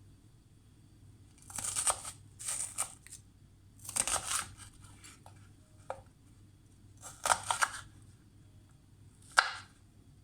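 Food being prepared by hand, heard as five short noisy bursts a second or two apart.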